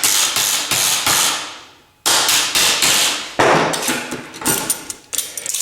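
Hammer blows striking a cheap Lightning OTF automatic knife driven into wood: two quick runs of about four sharp strikes each, followed by lighter knocks and small metallic clicks near the end.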